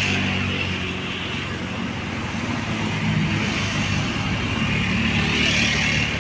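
Road traffic passing: one vehicle's engine hum fades away at the start, then the rumble of passing vehicles, with a swell of tyre and road hiss about five to six seconds in.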